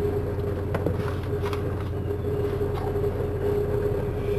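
Car engine idling with a steady low hum and a constant tone, heard inside the car's cabin, with a few faint soft clicks.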